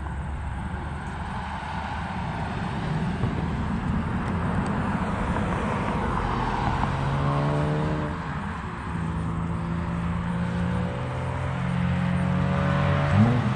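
2017 Subaru WRX's turbocharged flat-four engine and exhaust running while the car is driven. There is a broad steady rush at first, and about halfway through a steady low engine drone comes in, with the pitch shifting briefly.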